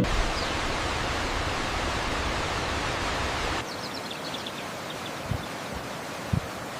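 Steady rushing outdoor noise, like running water or wind in the open, that becomes quieter and thinner about halfway through, with a few faint high chirps and a short low thump near the end.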